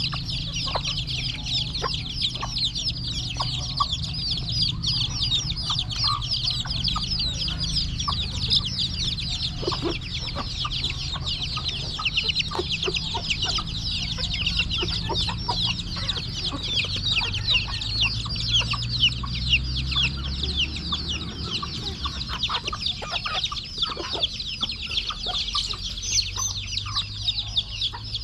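A flock of young chicks peeping continuously, many short high chirps overlapping, with scattered light taps among them.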